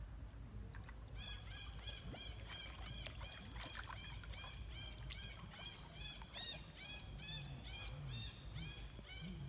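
An animal's short, high-pitched chirping calls, repeated steadily about two to three times a second, starting about a second in.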